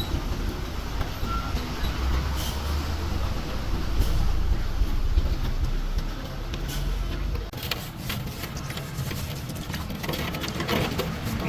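A machine running with a steady low rumble, which gives way about two-thirds in to a busier stretch of scattered clicks and knocks.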